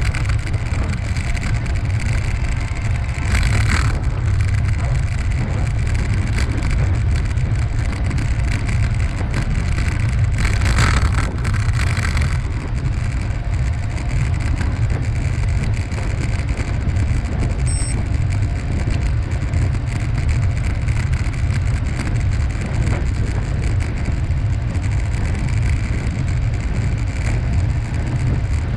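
Steady low rumble of wind buffeting the microphone while riding, with a hiss of tyres on the path. Brief hissy swells come about three seconds in and again around ten to twelve seconds in.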